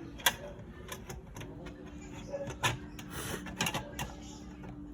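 Irregular sharp clicks and taps, like small hard parts or tools being handled, with a faint steady hum starting about a second and a half in.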